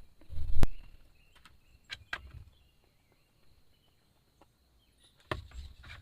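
A few knocks and bumps: a loud knock with a dull thud about half a second in, two sharp clicks around two seconds in, then another knock and bump near the end, with near quiet between.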